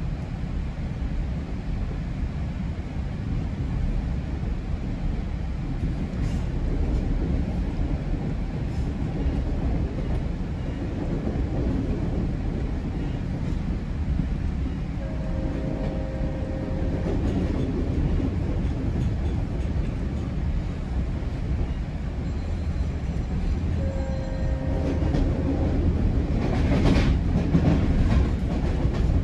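GO Transit commuter train running along the line, heard from inside a coach: a steady low rumble of wheels on rail. A brief steady two-pitch tone sounds twice, about halfway and again later, and the noise swells louder and brighter near the end.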